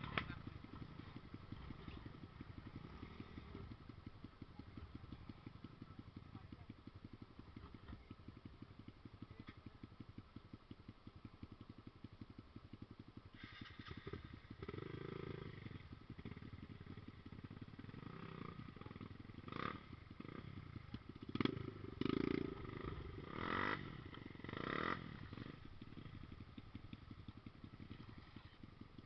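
Trail motorcycle engine running at low revs with a steady even putter, with several short louder bursts about two-thirds of the way through.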